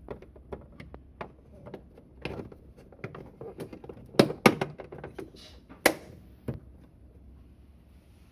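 Handling clicks and taps from work on a refrigerator's interior lamp and its cover: a run of light clicks, with three sharper clacks about four, four and a half and six seconds in.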